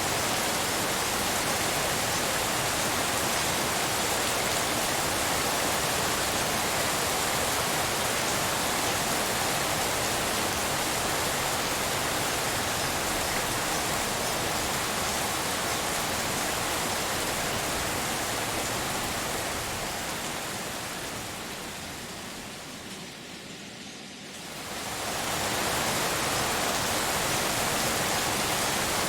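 Steady, even hiss of rain-like pink noise. About two-thirds of the way through it slowly fades down for a few seconds, then quickly swells back to full level.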